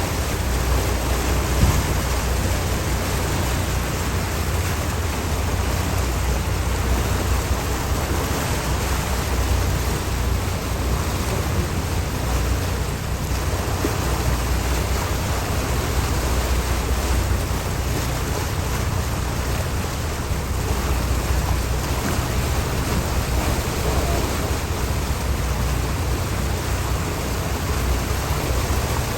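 Steady rush of wind and water with a constant low rumble underneath.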